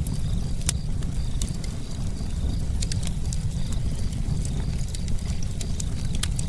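Campfire burning: irregular sharp pops and snaps of burning wood over a steady low rumble.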